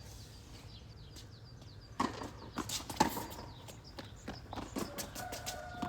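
Tennis balls being struck with rackets and bouncing on a hard court during a rally: sharp pops, the loudest two about a second apart starting about two seconds in, followed by lighter knocks.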